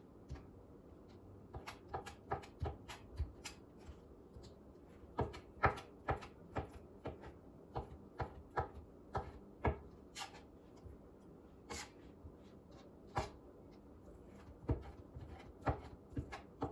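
Knife chopping rotisserie chicken meat on a cutting board: irregular knocks, sometimes a few a second, with short pauses.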